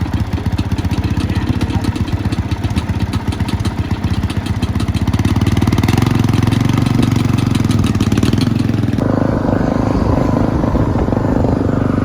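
Honda dirt bike engine running with rapid, even firing pulses, getting louder about halfway through. Its tone changes abruptly near the end.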